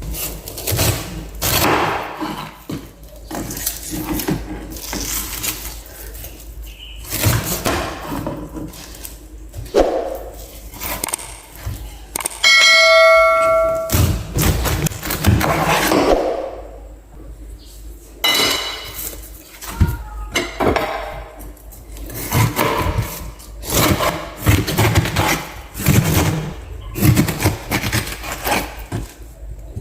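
Knife cutting a pineapple, one short cut after another at an uneven pace. Near the middle, a bell-like ding rings for about a second and a half.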